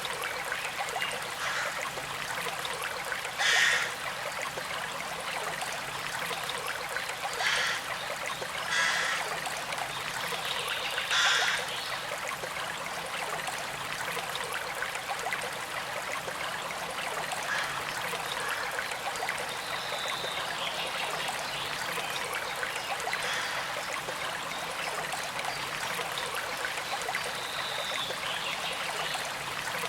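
Small creek trickling and flowing steadily over stones, an even watery hiss with four brief louder splashing spurts in the first half.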